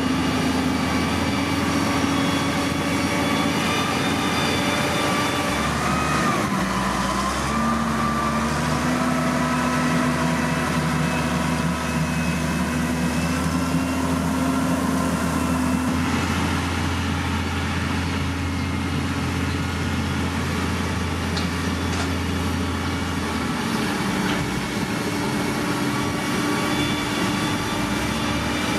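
Heavy diesel engine of earthmoving machinery running steadily under load. Its engine speed dips and picks back up about six seconds in and again near the end.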